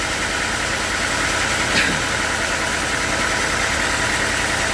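Sawmill machinery running steadily with an even engine-like hum and a constant high hiss, with no change in load.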